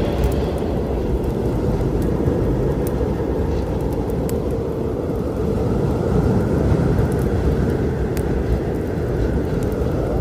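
Steady low storm rumble, with a few scattered sharp crackles of a wood fire.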